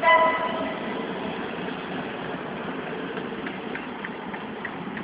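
Steady rumble of a moving train heard from aboard, opening with a short, loud horn blast that fades within about a second. A few faint clicks come near the end.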